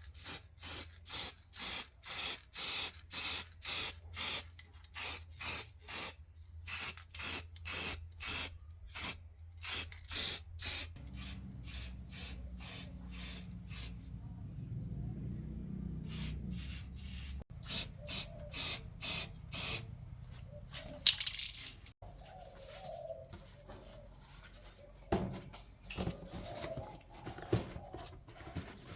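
Short hissing bursts of spray, about two a second, for roughly ten seconds, then a few more about halfway through, over a low steady hum. Scattered small clicks and taps follow near the end.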